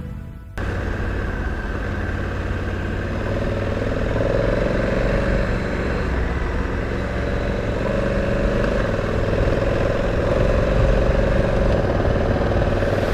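Adventure motorcycle engine running steadily, starting abruptly about half a second in, its note held at a near-constant pitch.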